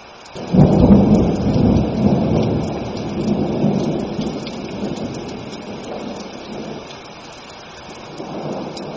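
A thunderclap breaks about half a second in and rumbles away over several seconds. A smaller swell of thunder comes near the end, over steady rain.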